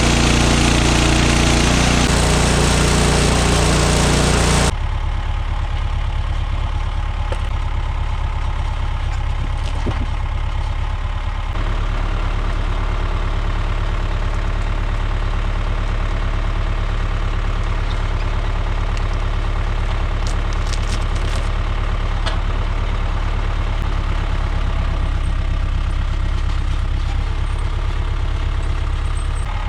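Woodland Mills HM126 portable sawmill's engine running. It is loud and harsh for the first few seconds, drops suddenly to a quieter, steady run about five seconds in, and shifts a little lower in tone near twelve seconds.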